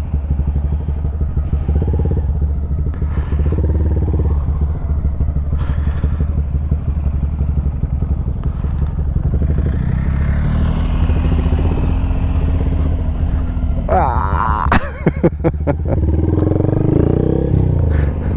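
Honda Grom's single-cylinder engine with an aftermarket exhaust running at low speed through tight turns, its pitch rising and falling once in the second half. A quick cluster of sharp knocks comes about three-quarters of the way in.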